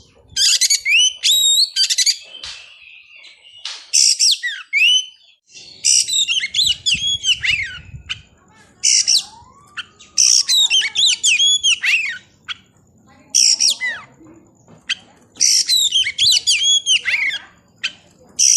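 Oriental magpie-robin (kacer) singing: loud phrases of quick sweeping whistles and dense chattering notes, one after another with short gaps between.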